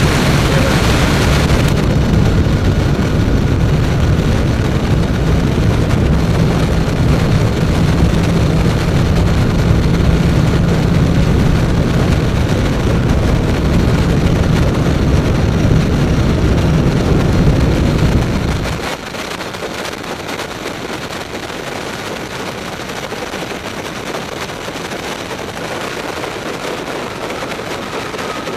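Wind buffeting and road rumble on the onboard microphone of a Mavizen TTX02 electric motorcycle at speed, crackling and loud with no engine note. About two-thirds of the way through, the low rumble drops away and the noise gets clearly quieter as the bike eases off.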